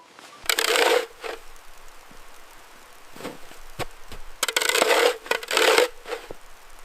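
Crunching, scraping noises in snow, in bouts of about half a second: one near the start, a shorter one just after, then two close together a little past halfway.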